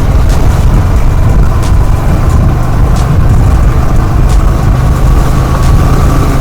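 Motorcycle running on the move, with heavy wind rumble on the microphone.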